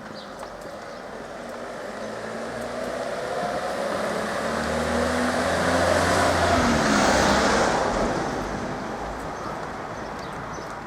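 A motor vehicle drives past on the road. Its engine and tyre noise build to a peak about seven seconds in, drop in pitch as it passes, then fade.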